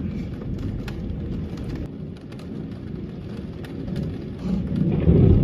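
Thunder rumbling, swelling to a loud peak near the end.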